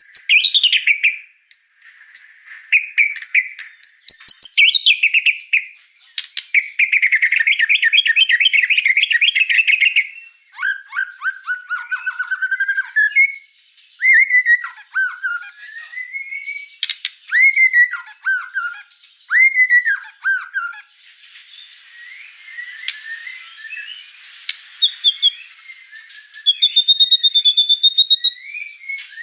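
White-rumped shama (murai batu) singing a long, varied song in full voice. It opens with fast trills, moves to loud slurred whistles that fall and rise, and ends with high, thin whistled notes.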